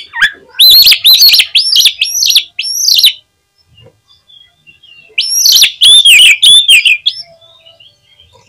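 Oriental magpie-robin singing loudly in two phrases of rapid, repeated sweeping whistled notes, with a pause of about two seconds between them.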